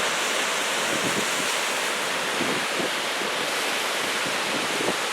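Ocean surf from a typhoon swell washing and breaking steadily, with wind buffeting the microphone in low gusts.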